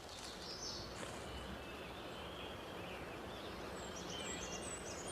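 Woodland ambience: a steady soft noise bed with faint, high, short bird chirps scattered through it.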